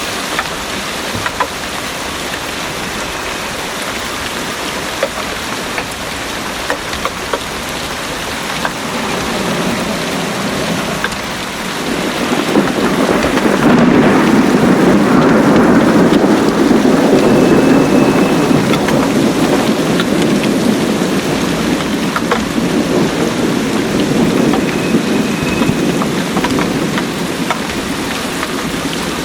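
Heavy rain falling steadily, with individual drops ticking. About twelve seconds in, a long rumble of thunder swells up, is loudest through the middle and dies away over about ten seconds.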